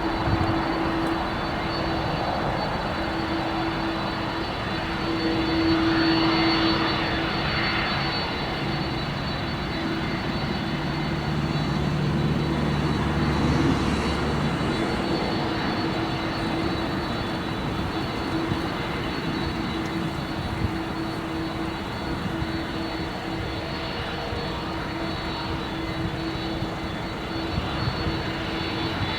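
Jet engines of a Boeing 787-10 Dreamliner running with a steady rush and hum, swelling slightly twice along the way.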